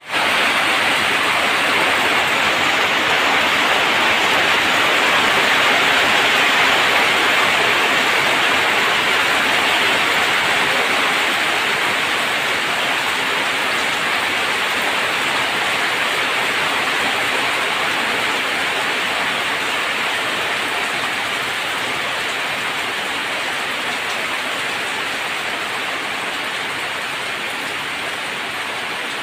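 Heavy monsoon rain falling on corrugated metal roofs and pouring off the eaves in streams: a loud, steady hiss that eases slightly after about ten seconds.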